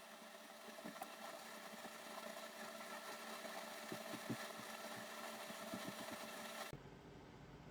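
Faint steady mechanical hum, like a small motor or fan, with a few light clicks and taps. The hum changes abruptly near the end to a lower, duller background hum.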